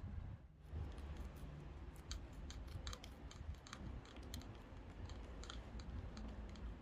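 Irregular small, sharp clicks and snips, several a second, over a low rumble.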